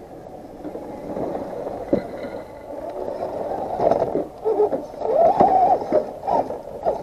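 Small electric motors and geartrains of micro-scale RC crawler trucks whining, their pitch rising and falling with the throttle, with a few sharp knocks from the trucks on the course.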